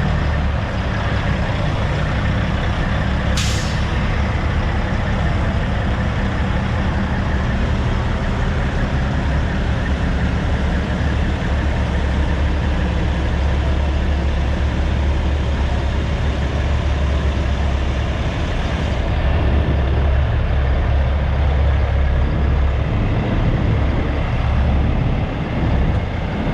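Heavy truck's diesel engine running steadily as it moves slowly, with one short, sharp air-brake hiss about three seconds in.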